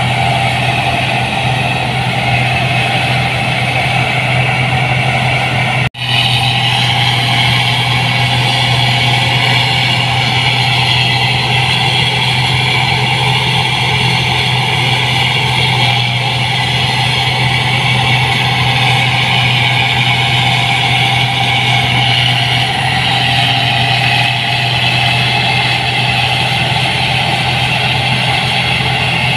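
New Holland 8060 combine harvester running steadily, engine and threshing machinery together, with a very brief dropout about six seconds in.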